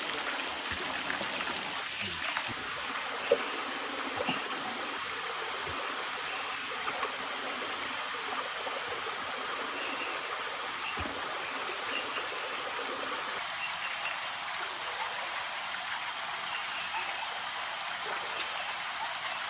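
Steady hiss of rushing water, with one sharp knock about three seconds in.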